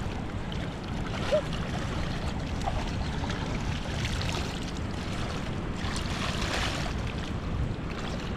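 Wind buffeting the microphone over the steady wash of moving water at a tidal river mouth, with a brief knock about a second and a half in.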